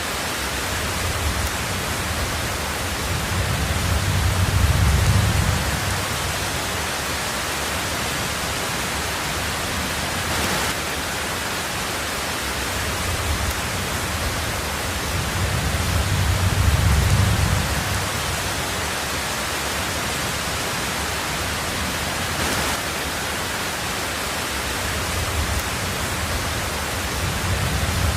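Heavy rain drumming steadily on a tin roof, an even hiss, with low rumbles of thunder swelling and fading about every twelve seconds: around 4 to 6 seconds in, again around 16 to 18 seconds, and once more at the end.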